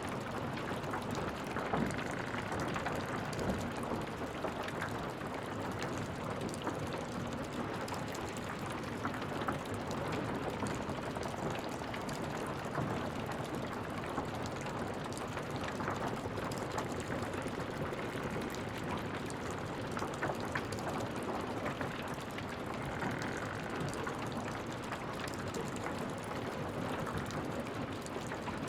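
Wood fire crackling: a steady hiss of flames with many small, irregular pops and snaps.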